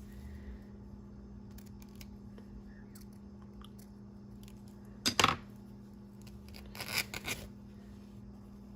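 Two short rasps of gauzy, linen-like fabric being worked by hand, one about five seconds in and one about seven seconds in, over a steady low hum.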